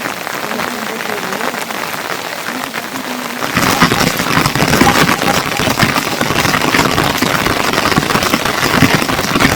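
Rain falling, with a steady patter that turns fuller and louder about three and a half seconds in.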